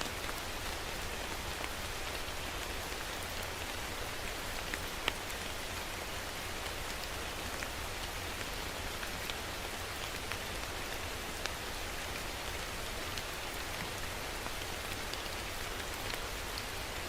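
Steady rain falling, an even hiss with scattered sharper drop ticks landing on a surface.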